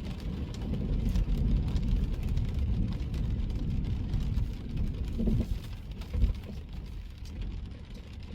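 A car driving in rain: a steady low rumble of the vehicle on the road, with the scattered patter of raindrops. A single brief thump about six seconds in.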